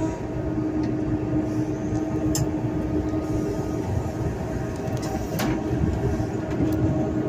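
Train running at low speed: a steady low rumble with a steady hum and a few sharp clicks.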